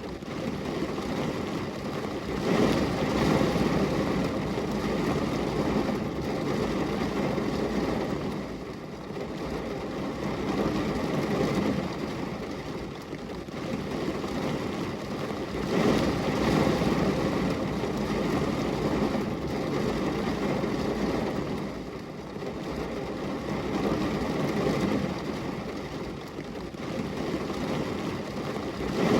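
Steady rain on a glass window: a dense, deep, even hiss that swells and eases every several seconds.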